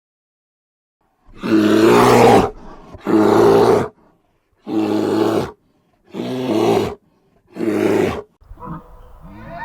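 A large animal giving five loud, rough calls, each about a second long, spaced a little over a second apart.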